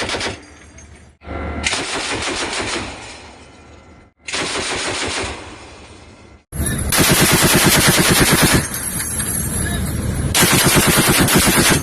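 Machine-gun fire in rapid automatic bursts: three shorter bursts with sudden breaks in the first six and a half seconds, then heavier, near-continuous firing through the rest.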